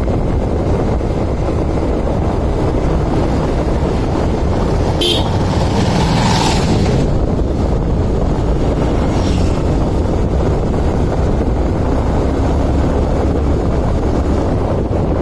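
Steady wind rumble on the microphone over vehicle and traffic noise, with a short vehicle horn about six seconds in.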